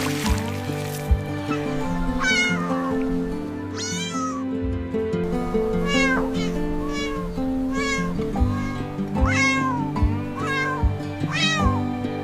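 A cat meowing again and again, about seven short calls that fall in pitch, over background music with held notes and a low beat.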